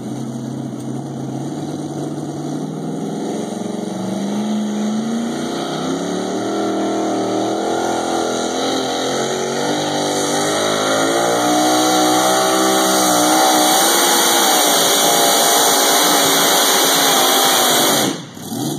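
Pulling truck's engine running hard under load during a truck pull. Its pitch climbs steadily through the first half, then holds high and level, and it drops away suddenly near the end.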